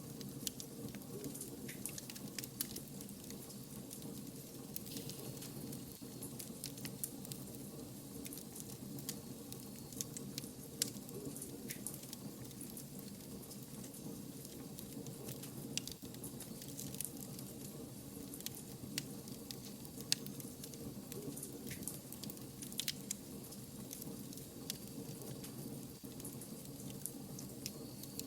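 Wood fire crackling: irregular sharp snaps and pops over a steady low rush.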